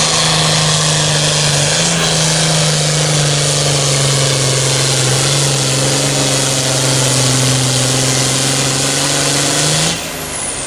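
Pulling tractor's engine running loud at full throttle under heavy load, its pitch sagging slightly as it drags. The engine note cuts off suddenly near the end as the throttle comes off.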